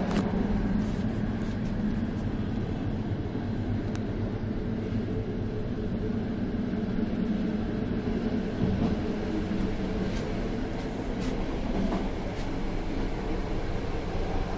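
Steady rumble of a moving passenger train heard from inside a compartment: wheels running on the rails, with a few faint clicks.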